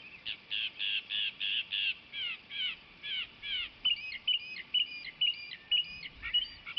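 Mockingbird singing in repeated phrases: a run of about six harsh notes, then about five falling slurred notes, then a quick series of sharp chirps, each phrase repeated several times before the bird switches to the next.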